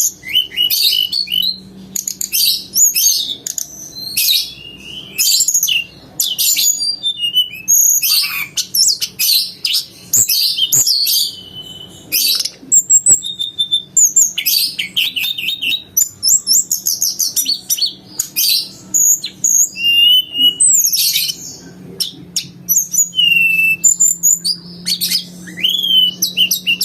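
A tledekan gunung songbird singing continuously: rapid runs of high twittering, trills and clear whistled notes, with canary-like phrases mixed into its song. A faint steady low hum lies underneath.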